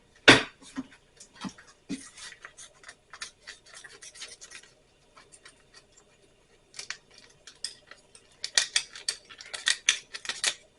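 A utensil stirring and scraping in a cast iron pot: a run of short, uneven scrapes, with a sharp knock just after the start and a quieter stretch in the middle.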